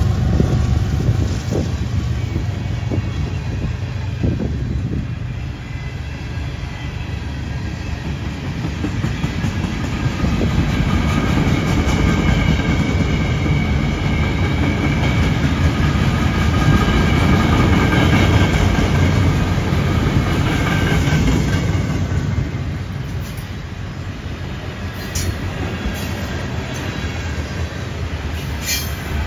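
Freight train of covered hopper cars rolling past: a steady rumble of steel wheels on the rails, with faint wheel squeal through the middle and a few sharp clicks near the end. The mid-train diesel locomotive's engine fades out just after the start.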